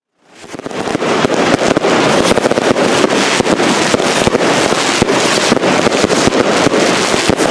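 A dense barrage of fireworks and firecrackers: continuous crackling packed with many sharp bangs, fading in over the first second.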